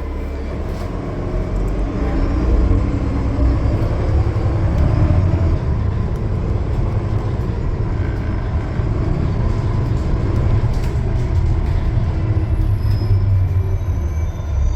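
Cummins ISL9 diesel engine of a 2020 Gillig Low Floor transit bus running at highway speed, a steady heavy rumble mixed with road noise and a few light rattling clicks. It grows slightly louder about two seconds in.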